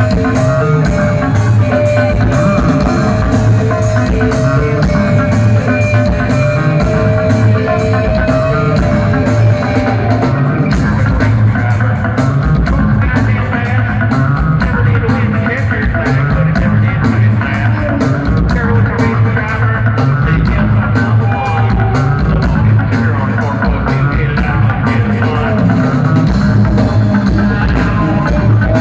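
Loud live rock music from a band playing in a large hall, with a busy, heavy low end moving in a repeating riff throughout.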